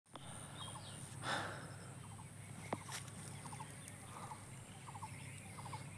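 Small animals calling outdoors: short calls of two or three quick notes repeating about once a second, over a steady high insect hum, with a brief rustle about a second in.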